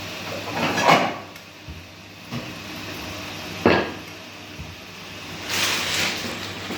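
Whirlpool washing machine running with a steady hum. A rushing swell comes about a second in, a single sharp knock midway, and another longer rushing swell near the end.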